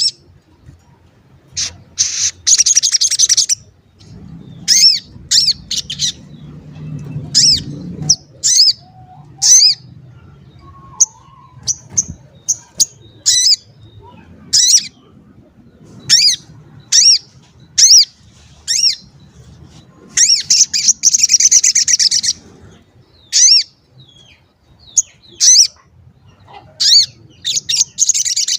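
Sogon bird calling in full song: sharp, downward-sweeping 'cuit' chirps, singly or in pairs every second or so. Dense bursts of rapid chattering come shortly after the start, about two-thirds of the way through and again at the end. A faint low hum runs underneath.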